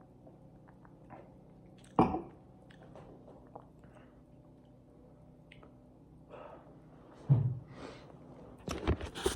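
A person chewing steak, with small wet mouth clicks throughout. A sharp knock comes about two seconds in, a low thump near the end, and a short clatter at the very end.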